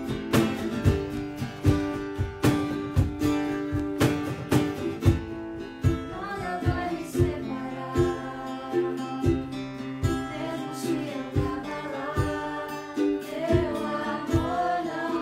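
Acoustic guitar strummed in a steady rhythm, with a singing voice coming in about six seconds in.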